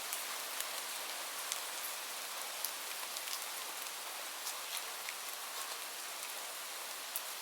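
Steady rain falling on a surface, an even hiss with scattered sharp drip ticks.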